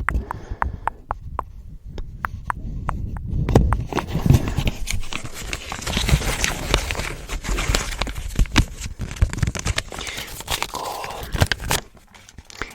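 A paper US one-dollar bill handled close to the microphone: a string of separate sharp clicks, then dense crinkling and crackling of the note, easing off near the end.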